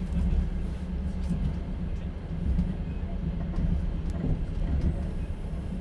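Steady low rumble of a moving passenger train heard from inside a sleeper carriage: the wheels running on the rails, with faint light clicks and rattles over it.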